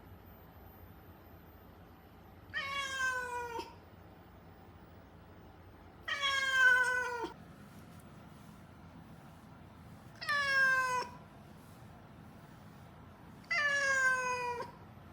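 Siamese-mix cat meowing loudly and repeatedly, four drawn-out meows each about a second long that drop in pitch at the end, one every three to four seconds. This is the persistent calling of a cat not settling to being kept in a room.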